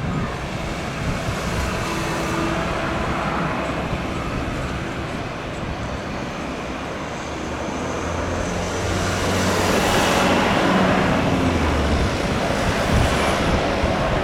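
Jet airliner passing close on its landing approach: a loud engine rush that builds and peaks about ten seconds in, with a low engine drone under it, then stays loud.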